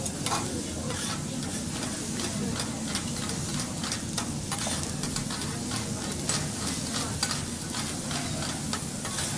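Food sizzling on a teppanyaki griddle. Metal spatulas click and scrape against the steel plate several times a second.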